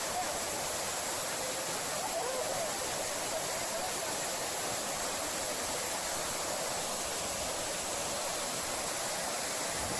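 Waterfall pouring into a large basin: a steady, even rush of falling water.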